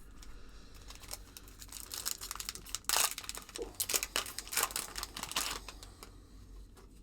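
Trading-card pack wrapper crinkling and tearing as it is handled and opened, a run of crackles loudest about three seconds in.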